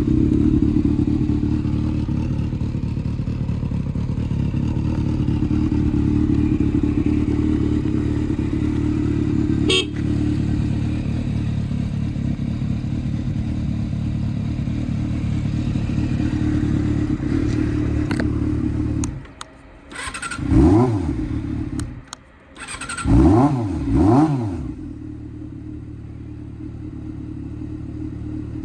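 Honda CB400 Super Four NC31's inline-four engine with an aftermarket muffler, idling steadily. Near the end the throttle is blipped three times, the pitch rising and falling quickly each time, before it settles back to a quieter idle.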